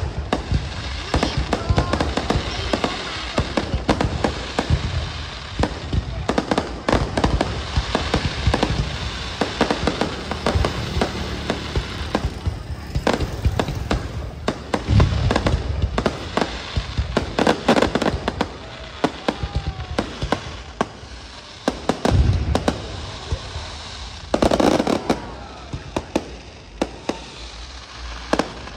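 An aerial fireworks display firing continuously: a dense run of bangs and crackling, with heavier deep booms about halfway through and again a few seconds later.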